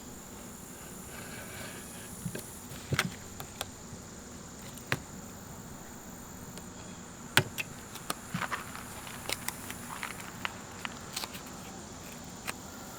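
Scattered light taps and clicks from peel-and-stick foam padding being laid across an aluminum boat hatch and pressed down by hand, over a steady high insect drone.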